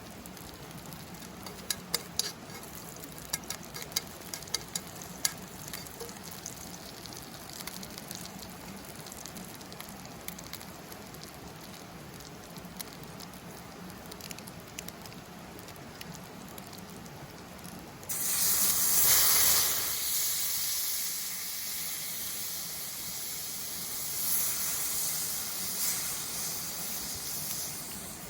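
Food frying over a campfire: a low crackle with scattered sharp pops, then about two-thirds of the way in a loud sizzle starts suddenly as something goes into the hot pan, and keeps sizzling.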